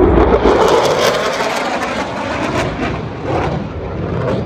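Loud engine noise of an aircraft passing close by: a dense rush with crackling running through it.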